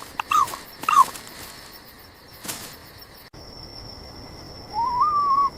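Cartoon animal sound effects: a run of quick high squeaky chirps in the first second, then a soft whoosh. After a sudden cut, a faint steady high tone and near the end one short wavering whistle-like call.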